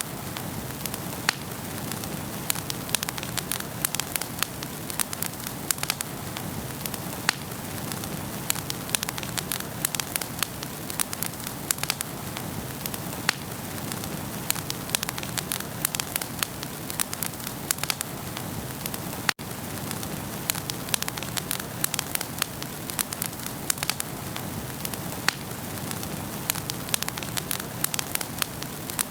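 Wood fire burning in a fireplace: a steady low hiss with frequent sharp crackles and pops, broken by a split-second dropout about two-thirds of the way through.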